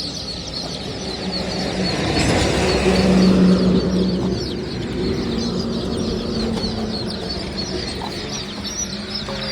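A mass of young chicks cheeping steadily in rapid high peeps. A vehicle passes close by, its engine swelling to its loudest about three and a half seconds in, then fading.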